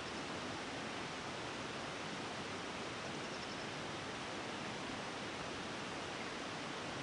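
Two nearby waterfalls rushing, a steady, unbroken noise of falling water.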